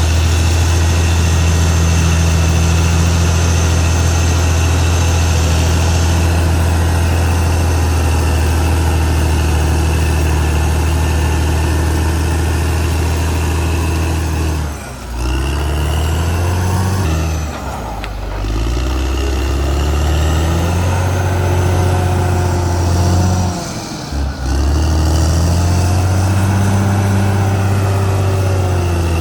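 Caterpillar D6R XL bulldozer's diesel engine running under load, steady for about the first half. It then drops and picks back up in speed a few times, with brief dips around halfway through and again near the end.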